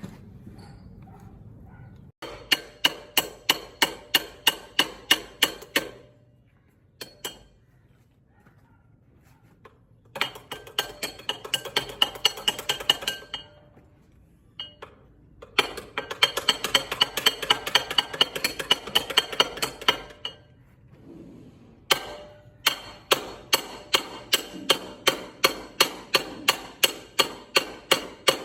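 Rapid hammer blows on the metal of a water pump motor under repair, about three strikes a second, in four runs of several seconds with short pauses between them; each strike rings.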